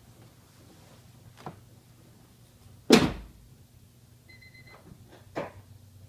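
Sounds of getting into a 1996 Acura NSX before starting it: a single heavy thump about three seconds in, like the car door shutting, then a short electronic chime beep lasting about half a second and a light click.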